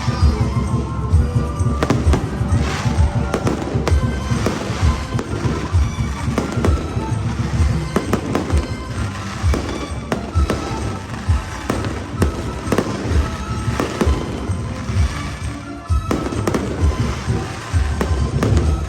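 Fireworks display: a dense, irregular run of deep booms and sharp bangs that keeps going, easing briefly near the end, with music playing alongside.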